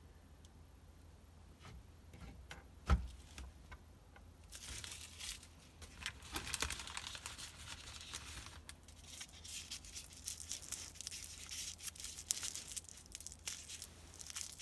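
Bubble wrap crinkling and packing tape tearing as a wrapped item is pulled open by hand. It becomes a steady run of crackling from about four and a half seconds in, after a single knock near three seconds.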